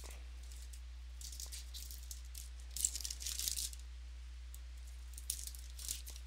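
Trading-card pack wrapper being torn open and crinkled by hand, in two bouts of crackly rustling, the second shorter.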